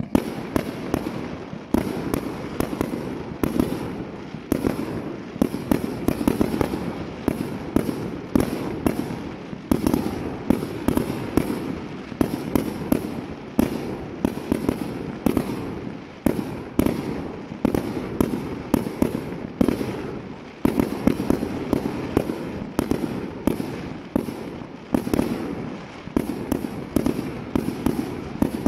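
Fireworks display: aerial shells and low bursts going off in a continuous barrage, several sharp bangs a second with no letup.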